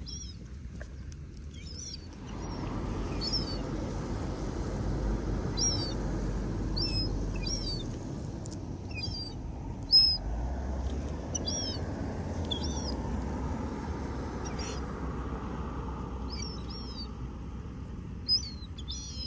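House sparrows chirping, short high chirps scattered throughout, one louder than the rest about halfway, over a steady low rumble that sets in about two seconds in.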